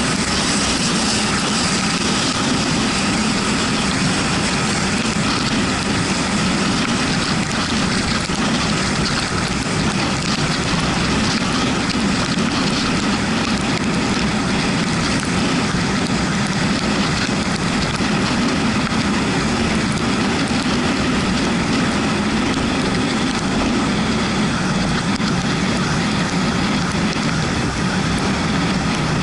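A Yamaha MT-125 motorcycle riding on wet roads: a steady rush of wind and road noise, with the engine running underneath and no sharp changes.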